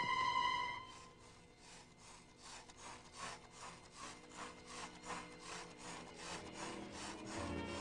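A steady electronic tone cuts off just under a second in. It is followed by a faint, even run of rhythmic scraping strokes, about two and a half a second, like sawing or scrubbing.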